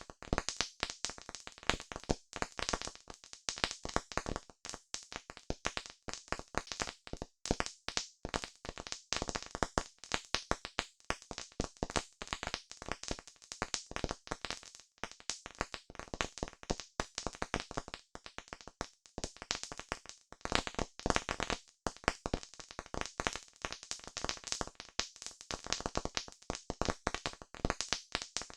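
Campfire crackling: wood burning with a dense, irregular run of sharp pops and snaps, several a second.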